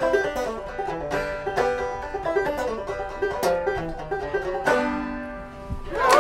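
Five-string banjo picked in a quick run of ringing notes, closing on a lower note about five seconds in that rings and fades away.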